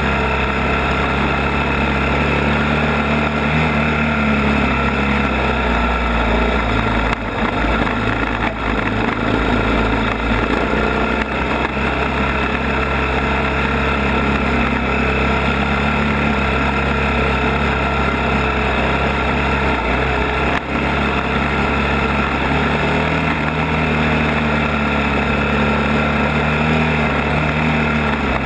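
ATV (quad) engine running with a steady note, shifting slightly in pitch now and then, with a few brief dips in loudness.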